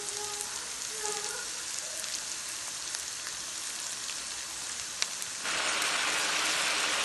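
Onion, garlic-ginger paste and spices sizzling in hot oil in a pan, a steady crackling hiss. About five seconds in, the sizzle suddenly gets louder and harsher.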